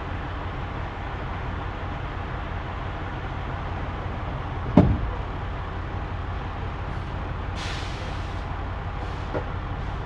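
Steady low rumble of a big rig's engine, heard from around the truck. About halfway through comes a single sharp thump, and near the end a short hiss of about a second.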